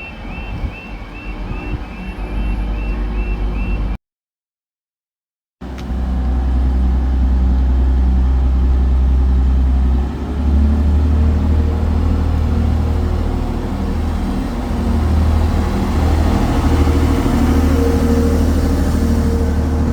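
A rapid series of short, high electronic warning beeps, then a second and a half of silence. After that, a train's diesel engine runs loudly with a deep, steady drone, and its note steps up about ten seconds in as it powers up.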